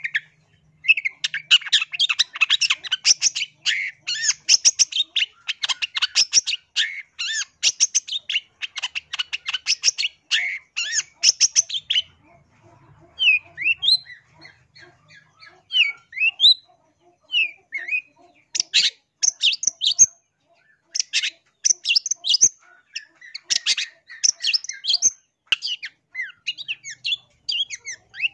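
Long-tailed shrike (cendet) singing: fast runs of harsh, chattering notes, broken for a few seconds past the middle by sparser whistled notes that slide up and down.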